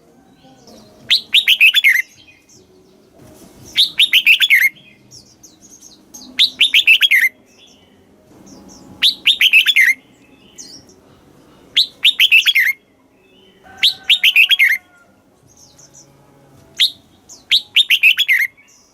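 Red-whiskered bulbul singing: a short, loud phrase of quick falling whistled notes, repeated about every two and a half seconds.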